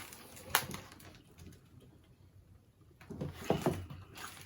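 Close-up eating sounds: chewing, with a sharp click about half a second in and another near the end.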